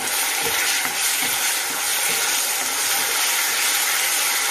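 Vegetables sizzling as they stir-fry in a non-stick wok, with a steady hiss and the scrape and repeated light knocks of a wooden spatula stirring them.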